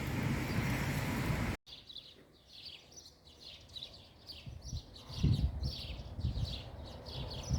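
Heavy downpour with a thunder rumble that cuts off abruptly about one and a half seconds in. A bird's rapid, repeated high chirps follow, with low rumbling thumps from about five seconds in.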